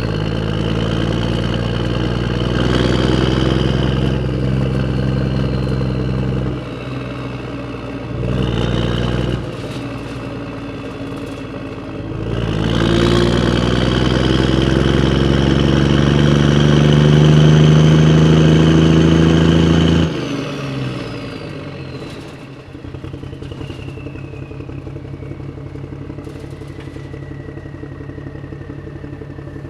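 Tractor engine driving on a road. The revs dip twice briefly early on, then climb steadily for several seconds before falling suddenly to a lower, even running beat about two-thirds of the way through, as a thin high whine slides down in pitch.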